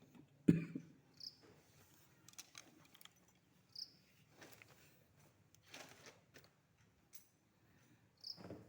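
A sharp knock, then scattered light clicks and taps, with a short high chirp three times, about two and a half seconds apart.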